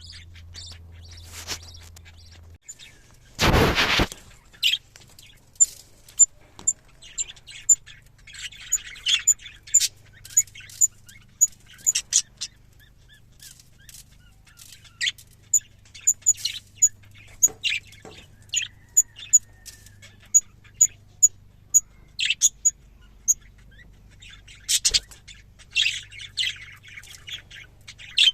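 Budgerigars chirping and chattering, with a long run of short, very high peeps evenly repeated about one and a half times a second. A brief loud rustle comes about three and a half seconds in.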